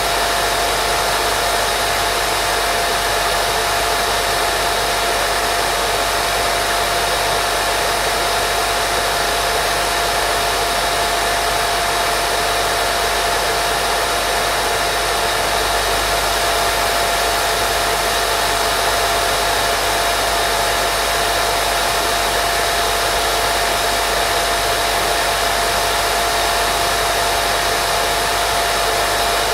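Steady white-noise hiss, unchanging throughout, with a faint steady tone running through it.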